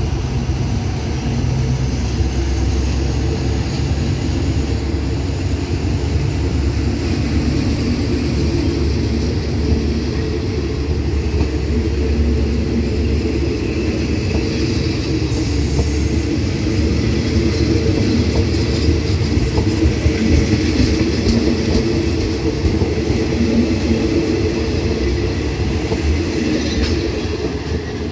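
Passenger train coaches rolling past on the track, a steady rumble of steel wheels on rail that eases off near the end as the last coach goes by.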